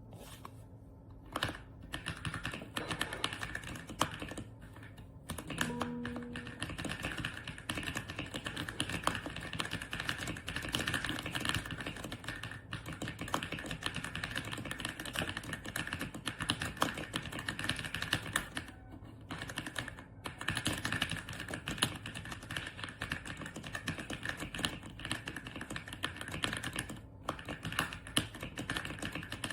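Fast typing on an AULA F99 mechanical keyboard: a steady stream of keystroke clicks with a few short pauses.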